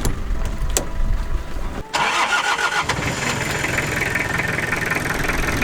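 Jeep engine starting about two seconds in, then running steadily. Two clicks are heard in the first second.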